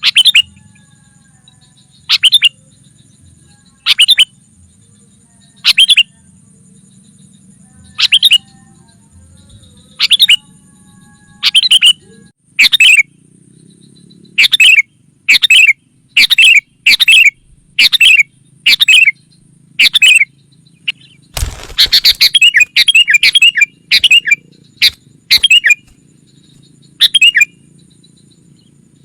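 Sooty-headed bulbul (kutilang) giving short, loud calls, one about every two seconds at first. Halfway through they come quicker, with a dense flurry a little later, then space out again. It is a lure call for drawing in wild bulbuls.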